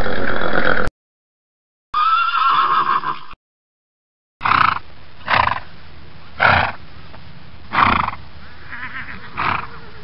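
Horse whinnying and neighing in three separate cuts with silent gaps between: a loud call lasting about a second at the start, a wavering whinny about two seconds in, then from about four and a half seconds five short calls over a steady background hiss.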